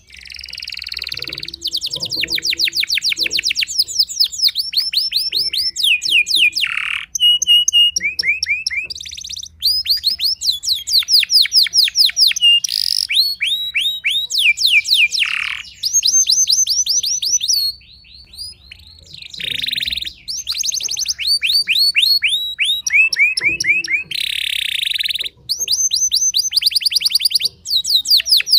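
Domestic canary singing a long, almost unbroken song: fast trills of repeated down-slurred notes that change pitch and speed every second or two, mixed with a few short buzzy rolls, and one brief pause about two-thirds through.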